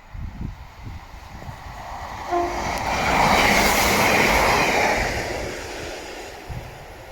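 A train passing the level crossing at speed: a rushing rail noise swells about two seconds in, is loudest in the middle, then fades away, over low wind rumble on the microphone.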